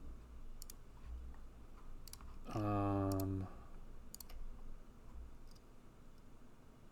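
A few sharp computer mouse clicks, spaced irregularly. About two and a half seconds in, a man gives a short held "hmm" lasting about a second.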